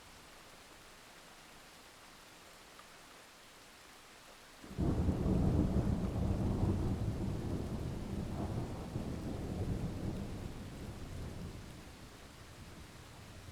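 Steady heavy rain, then about five seconds in a sudden loud thunderclap that rumbles on for several seconds and slowly dies away back into the rain.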